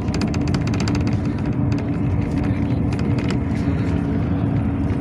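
Cabin sound of a Yutong ZK6118HGA city bus under way: a steady engine and road rumble with a held hum. A fast run of clicking rattles comes in the first second or so, with a few more a couple of seconds later.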